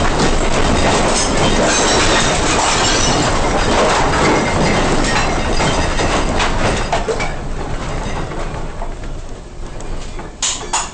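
Earthquake shaking: a loud, deep rumble with continuous rattling and clattering of shaken objects. It eases off after about seven seconds, with a few sharp clatters near the end.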